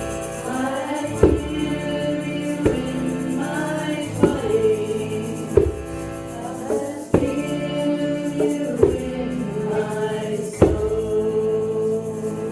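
Kirtan chanting: voices singing a devotional chant over a sustained drone, with a drum or hand percussion struck about every second and a half.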